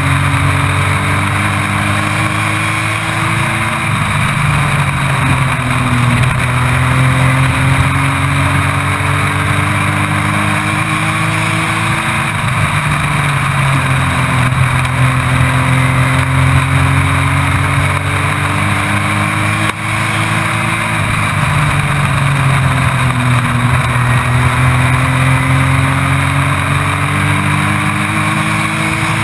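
Race truck engine heard from inside the cockpit, running at full throttle with its pitch climbing steadily down each straight and falling away into each turn, about four times, over steady wind and road noise.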